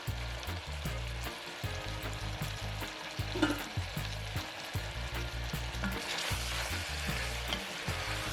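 Food sizzling as it fries in a pan while it is stirred, with occasional clicks and scrapes of the utensil. A low hum pulses underneath, changing pitch in steps.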